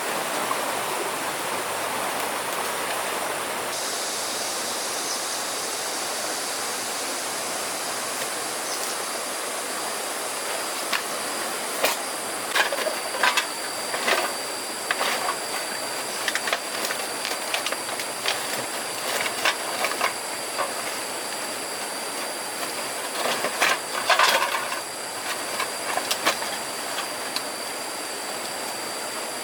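Steady hiss with a thin, high, steady whine over it, and a run of irregular knocks and clatter through the middle, densest in two clusters.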